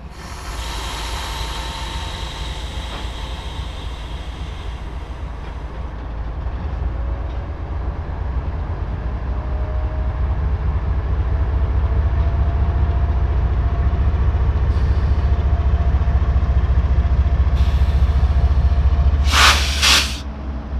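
Freight train running by on the mainline: a low rumble that grows steadily louder, with a high hiss in the first few seconds and a brief loud rushing burst near the end.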